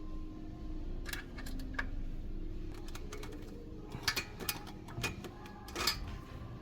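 Scattered sharp metallic clicks and clinks of tools and parts being handled, a few early and a quicker cluster in the second half, over a low steady hum.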